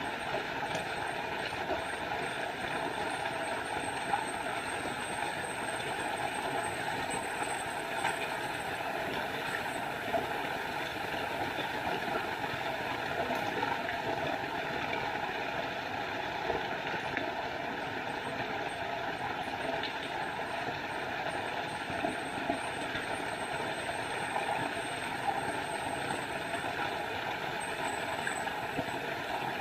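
Small forest waterfall, water falling and splashing at a steady, even level.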